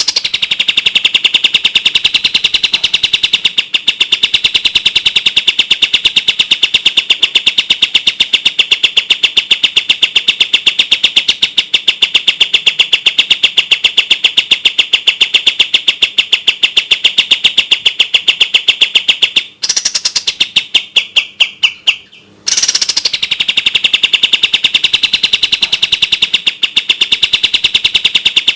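Kapas tembak songbird singing its rapid-fire 'tembak' song: a fast, tight train of clear, high repeated notes. About twenty seconds in it drops to a fainter, sparser run for a few seconds, then the dense song resumes.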